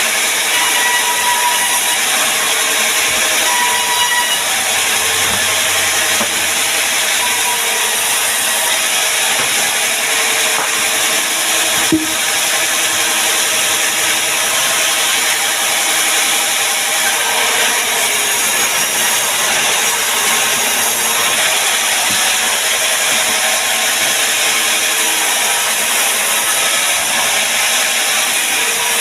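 Power tool working a mahogany beam, running steadily and loud throughout, with one sharp knock near the middle.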